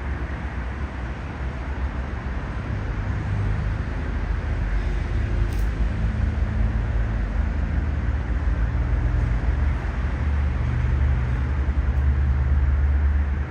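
Road traffic: a low motor-vehicle engine rumble that grows louder through the second half.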